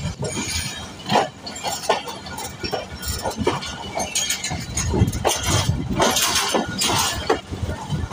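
Passenger train wheels clattering and clanking over rail switches and crossings, an irregular run of sharp metallic knocks over a low rumble.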